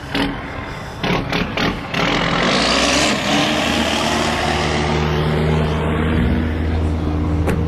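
Vehicle engine running steadily, with a loud rushing noise that swells and then fades over a few seconds, and a few sharp clicks near the start.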